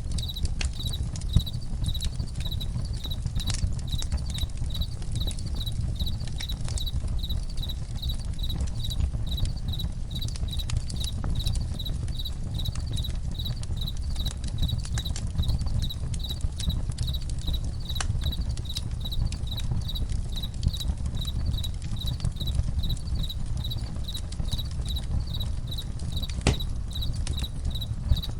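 Campfire crackling with scattered sharp pops over a low steady rumble, while crickets chirp steadily at about two chirps a second.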